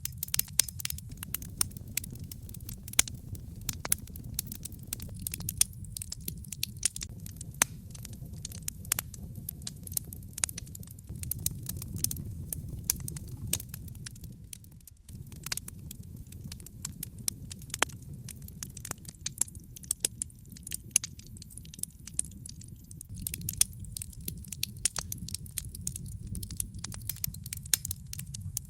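Logs burning in a fireplace, crackling with frequent sharp pops and snaps over a steady low rumble of flame. The sound dips briefly about halfway through, then carries on as before.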